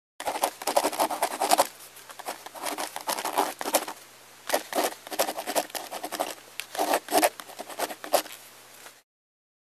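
Irregular scraping and rustling in clusters of quick strokes with sharp clicks, over a faint steady hum. It cuts off abruptly about nine seconds in.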